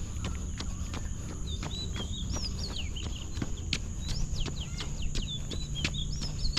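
Wild birds singing quick, swooping whistled phrases, starting about a second and a half in, over the regular footfalls of someone running, about three steps a second.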